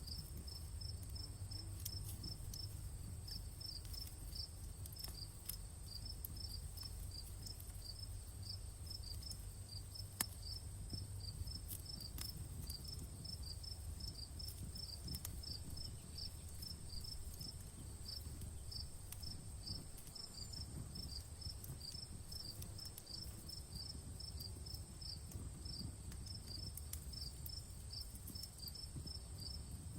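Crickets chirping in a steady, even rhythm over a campfire crackling with scattered snaps, one sharper pop about ten seconds in. A steady high tone hangs above the chirps.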